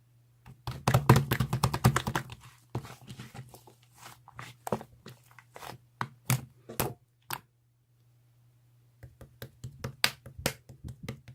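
Squishy clay slime being pressed and poked by hand, giving wet crackles and small popping clicks. There is a dense run of crackling about a second in, then scattered pops, a short pause, and more clicks near the end.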